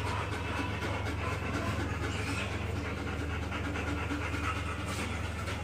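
A dog panting steadily, over a low hum.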